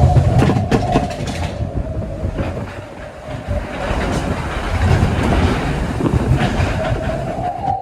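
Matterhorn Bobsleds roller-coaster car running along its track, rumbling and rattling with a steady whine from the wheels. Sharp clicks come in the first second and a half, and the rumble eases briefly around the middle before picking up again.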